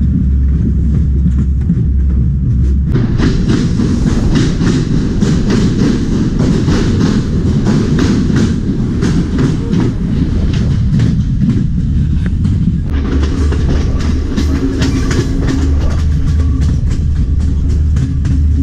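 Passenger train running along the track, heard from beside the carriages: a steady low rumble, with a dense run of wheel clicks and clacks over the rail joints from about three seconds in until near the end.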